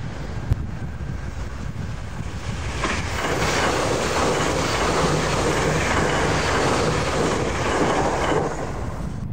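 A 681 series electric express train passing close at speed. The rush of its wheels and body rises sharply about three seconds in, holds for about five seconds, then drops away as the train goes by.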